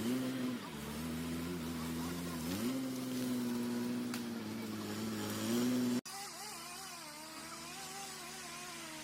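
Wood chipper engine running with a steady note, its pitch dropping and then rising again about two and a half seconds in. About six seconds in the sound cuts off abruptly to a quieter engine note that wavers up and down.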